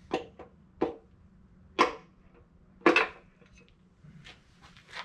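Metal tools and engine parts knocking and clinking as they are handled during an engine teardown: four sharp knocks in the first three seconds, then lighter clicks near the end.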